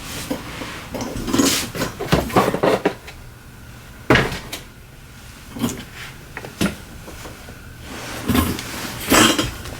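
Hard objects and tools clattering and knocking as someone rummages through them, with a sharp knock about four seconds in.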